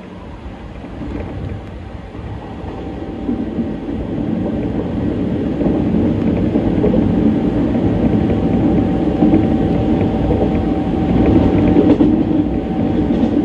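Hanshin Railway electric train heard from inside the carriage, its running rumble growing steadily louder over the first several seconds as it gathers speed. A faint steady whine sits over the rumble in the second half.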